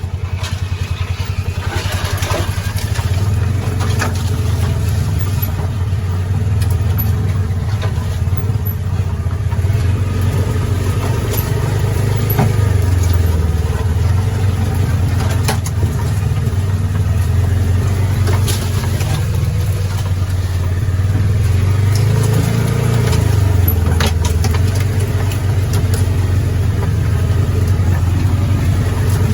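Polaris Ranger 570 side-by-side's single-cylinder engine running low and steady through its quieted, modified exhaust while the machine rolls down a steep slope on the brake. The engine note rises briefly a few times, with occasional light knocks from the vehicle.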